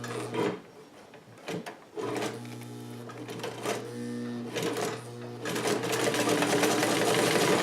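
Vintage Sovereign sewing machine's electric motor running. It stops about half a second in, with a few clicks, and starts again about two seconds in. From about two-thirds of the way through it runs louder with a fast, even stitching clatter as it sews through folded leather. The run ends in a failed stitch with a bunch of thread under the work.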